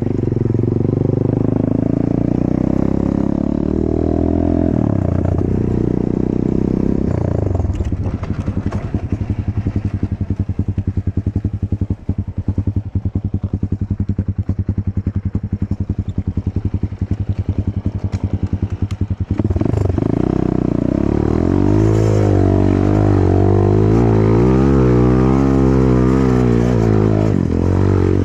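Enduro motorcycle engine revving as its rear wheel spins in the mud, then idling with a fast, even putter for about ten seconds, then revved again near the end with its pitch rising and falling.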